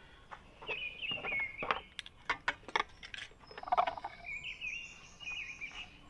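A bird singing in two warbling phrases, with a series of sharp clicks and knocks between them.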